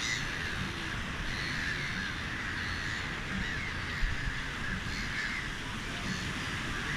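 Gulls calling from a flock, short harsh cries repeating every second or so over a steady rushing background noise, with a brief low bump about four seconds in.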